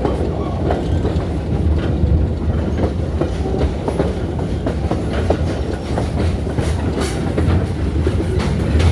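Passenger train car rolling along the track, heard from on board: a steady low rumble with irregular clicks and knocks from the wheels and running gear.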